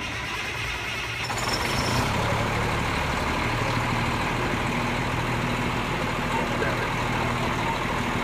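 Heavy rescue fire truck's diesel engine running, getting louder about a second in and then holding steady.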